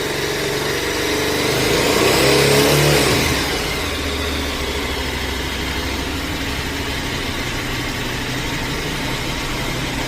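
KTM 1290 Super Adventure S motorcycle's V-twin engine revved once, rising to a peak about two to three seconds in and dropping back quickly, then idling steadily.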